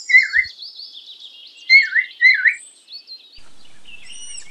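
Parrot calling: quick high twittering chirps with louder short calls, one at the start and two about two seconds in. About three and a half seconds in, a steady hiss comes in with high arching whistles.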